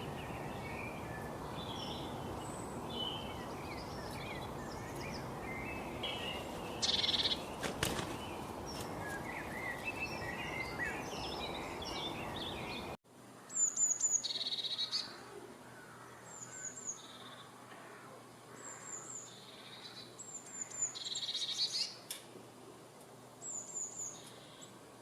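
Birds chirping and singing: a busy mix of many short chirps over a steady hiss, then, after an abrupt cut about halfway through, a single bird repeating a short, high song phrase every two to three seconds.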